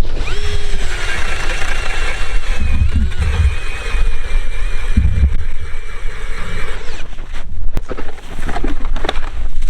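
Battery-powered drill driving an ice auger through river ice: the motor spins up with a steady whine, its pitch sagging slightly under load, runs for about six and a half seconds, then stops. A few knocks and scrapes follow.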